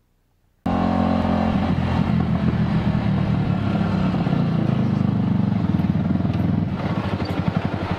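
Motorcycle engine running, starting suddenly under a second in with a steady, even note. Near the end the note breaks up into a rapid pulsing.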